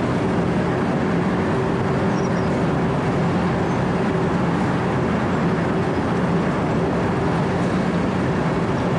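Wirtgen W 120 CFi compact cold milling machine running steadily under load, its diesel engine and spinning cutter drum grinding up asphalt along the edge of the concrete.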